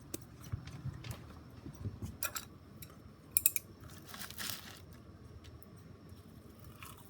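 Scattered clicks, knocks and short rustles, with a sharp double clack about three and a half seconds in.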